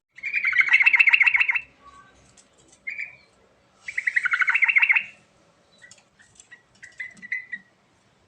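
Yellow-vented bulbul (trucuk) singing: two loud bubbling phrases of rapid notes about three seconds apart, with short softer calls between and after them.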